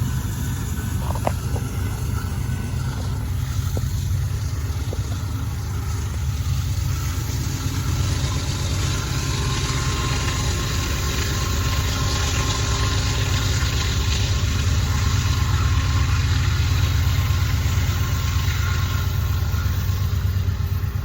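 Steady low rumble of a freight train, growing slightly louder in the second half.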